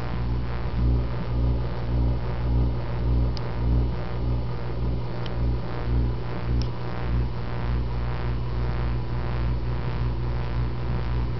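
Microwave oven running, a steady low hum that pulses about twice a second for the first several seconds, then evens out.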